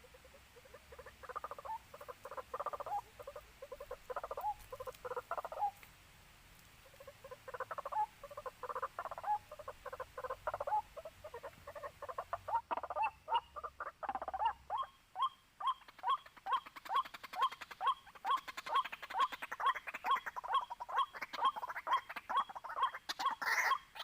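White-breasted waterhen calling: first loose, bubbling phrases, then from about halfway a steady series of sharp, repeated notes, about two a second.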